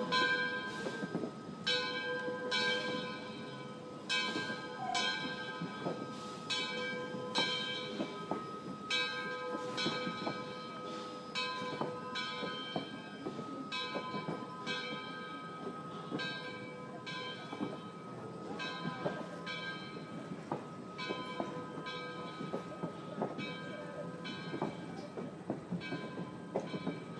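Passenger coaches rolling slowly past on the rails, with a bell ringing steadily about once a second.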